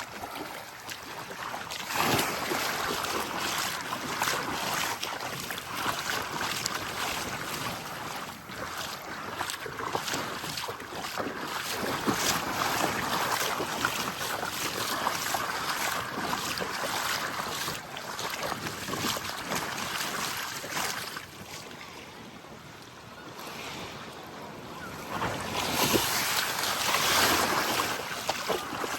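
Small waves breaking and washing up a sandy beach, the surf swelling and ebbing in slow surges, with breeze buffeting the microphone.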